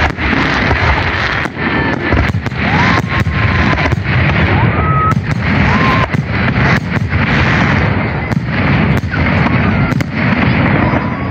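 Fireworks display: shells bursting in a rapid series of sharp bangs, roughly one a second, over dense continuous crackling, with a few short whistles rising in pitch.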